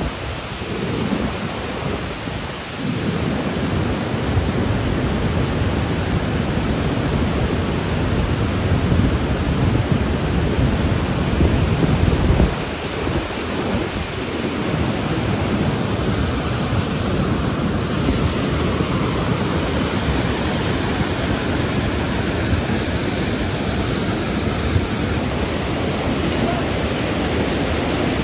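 Glacial floodwater from a draining glacial lake rushing down its channel: a loud, steady rushing noise with a heavy low rumble that eases a little about twelve seconds in.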